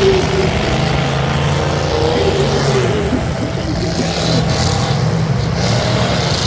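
Demolition derby cars' engines running and revving at once, in a steady, loud mix of engine note.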